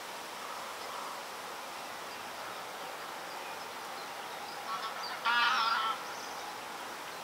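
Steady outdoor hiss, then about five seconds in a bird gives a couple of short notes and one loud, harsh call lasting under a second.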